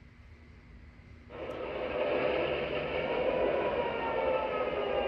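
Sound system of an MTH RailKing F-3 model diesel locomotive playing its recorded diesel engine start-up through the model's small speaker. After a moment of quiet the engine sound starts suddenly about a second in, then builds into a steady running sound with faint tones sliding slowly in pitch.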